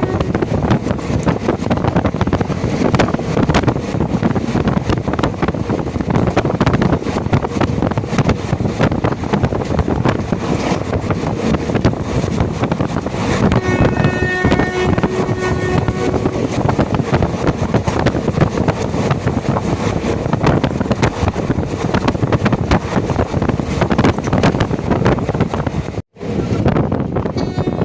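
A passenger train running at speed, recorded from on board: steady rumble of the coaches and wheels, with wind rushing across the microphone. About halfway through, a horn sounds for about three seconds. The sound cuts out for an instant near the end.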